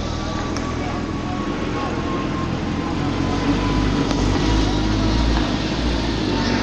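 Porsche 911 GT3 RS's flat-six engine running as the car drives, a steady sound with a held tone drifting slowly lower and a deeper rumble building about halfway through.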